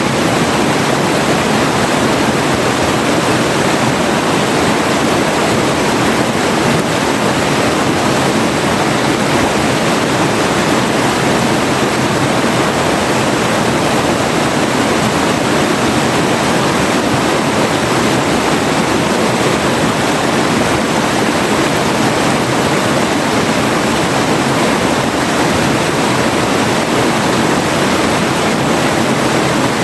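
A river flowing, giving a steady, unbroken rush of water.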